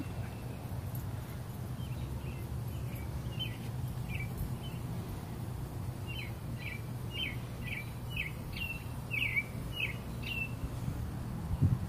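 A bird calling in a series of short, downward-slurred chirps, sparse at first and then about two a second, over a steady low hum. A low thump comes near the end.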